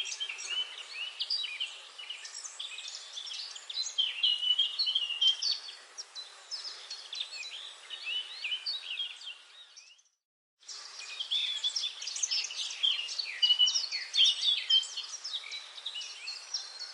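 Many songbirds singing at once in a busy forest chorus of overlapping chirps and trills, over a faint steady hiss. The sound cuts out completely for about half a second near the middle, then resumes.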